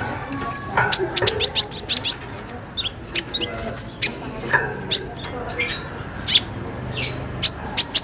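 Kolibri ninja sunbird calling: short, sharp, very high chirps, some in quick runs of several notes, with pauses between the runs.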